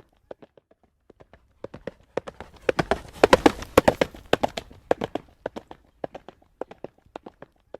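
Horse trotting on a road, hooves clip-clopping on the hard surface in a steady rhythm. The hoofbeats grow much louder and closer together, with a rushing hiss, from about a third of the way in, then drop back near the middle.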